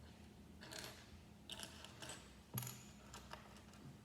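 Small plastic LEGO pieces being handled, with a few light clicks and rattles, the sharpest about two and a half seconds in.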